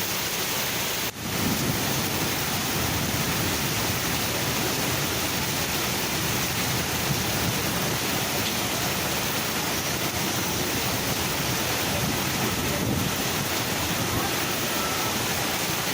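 Heavy summer rain with wind: a steady rushing noise with no break in it.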